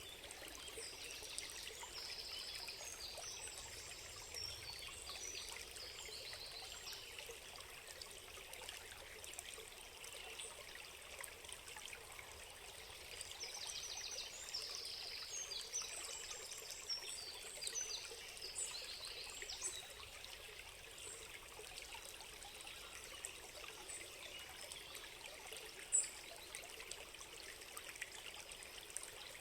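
Small stream trickling and babbling steadily, with birds singing in two spells of quick repeated chirps. A single sharp click near the end stands out above the water.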